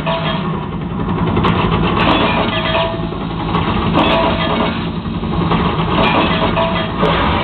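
Drift cars' engines running loudly, revving up and down.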